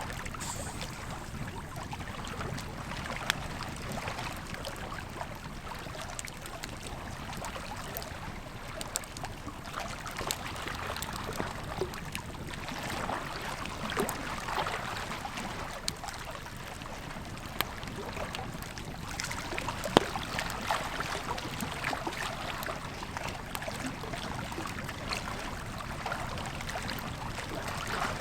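Wood campfire crackling with scattered sharp pops over the steady rush of a flowing river, one pop standing out loudest about two-thirds of the way through.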